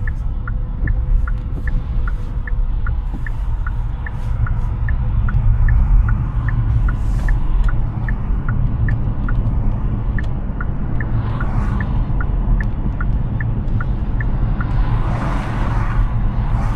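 Hyundai Ioniq 6 electric car driving: a steady low tyre-and-road rumble, with the turn-signal indicator ticking evenly in two alternating tones until it stops about two seconds before the end. Near the end a rushing hiss swells up.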